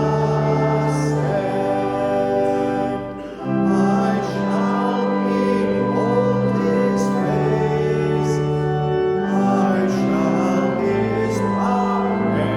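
Pipe organ playing a hymn in long held chords while a congregation sings, with a short break between lines about three seconds in.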